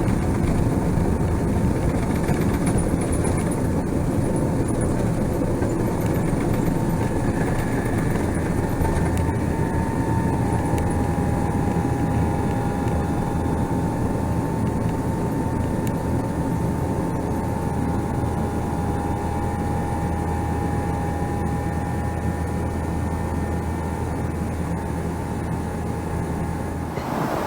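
Steady cabin noise of a Boeing 777-300ER in flight: an even rumble and hiss. About a third of the way in, a steady whine joins it and holds.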